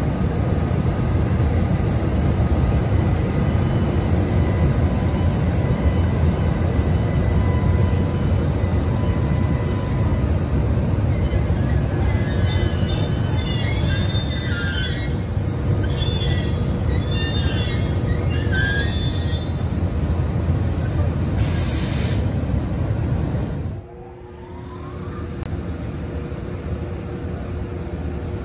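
JR Freight EH200 electric locomotive and its freight wagons rolling over yard track, a loud steady rumble with wheel squeal coming and going in the middle. A brief hiss comes just before the sound drops suddenly. Then the locomotive can be heard more quietly with a faint rising whine as the 2074 freight starts to pull away.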